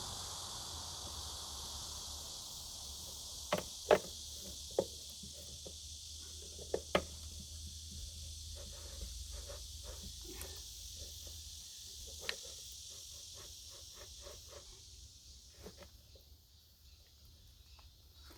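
Insects chirring steadily, fading near the end, with a few sharp knocks and clicks about four, five and seven seconds in and once more later, then lighter ticking.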